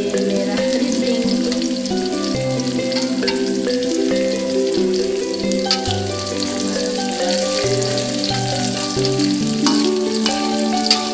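Oil sizzling steadily as sliced aromatics and chilli fry in an aluminium wok, with a utensil stirring and giving a few sharp taps on the pan. Background music with a simple melody plays over it.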